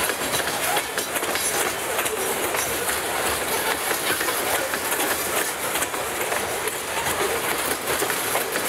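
Loaded covered hopper cars of a freight grain train rolling past: a steady rolling noise of steel wheels on the rails with frequent short clicks and clacks.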